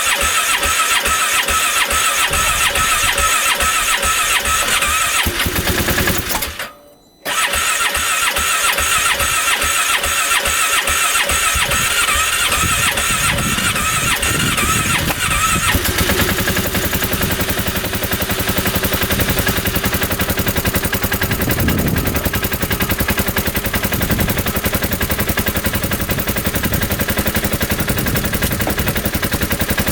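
The starter of a 2015 Polaris Ranger 570 cranking its cold engine in long tries, with a short pause about seven seconds in; the owner thinks the engine is flooded and too cold to fire. The cranking sound becomes steadier from about sixteen seconds in.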